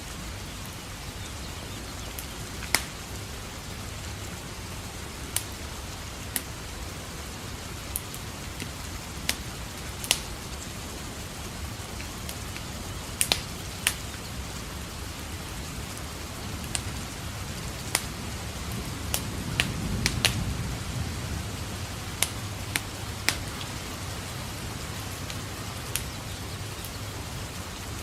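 Steady rain with irregular sharp crackles and pops of a wood fire burning in a fireplace. A low rumble of distant thunder swells and fades about twenty seconds in.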